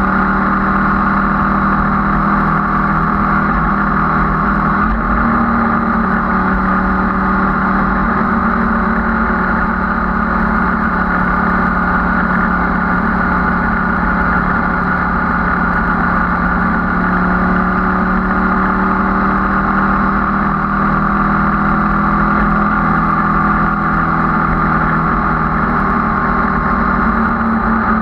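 Sport motorcycle's engine running at a steady cruising speed, heard from just behind the fairing, its pitch holding nearly level with only slight rises and falls.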